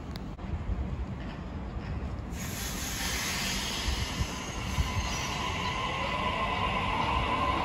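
Sydney Trains double-deck electric suburban train running past the platform, growing louder. About two seconds in, a hiss of wheels on rail comes in, and over the second half a whine rises in pitch.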